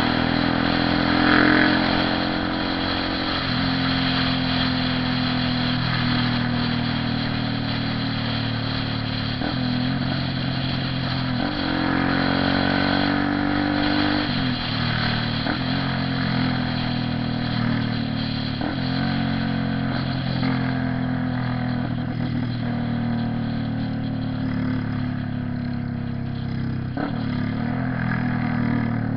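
Honda CB 300R's single-cylinder engine running under way, its pitch holding, rising and dropping back several times as the bike accelerates and changes gear, over a steady hiss of wind and traffic.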